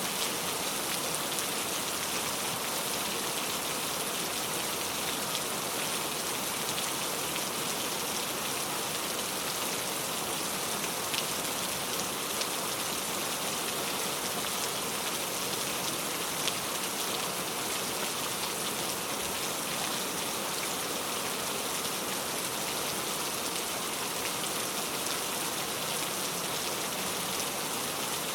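Heavy rain falling steadily, a dense even hiss with the occasional sharper drop tick.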